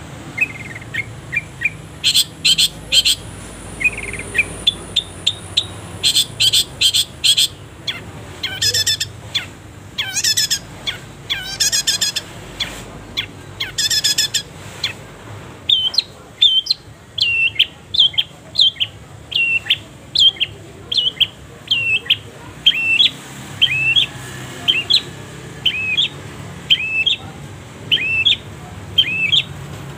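Long-tailed shrike (cendet) singing. It gives short chirps and rapid, buzzy trills in the first half, then a long run of repeated short down-slurred whistled notes, a little more than one a second.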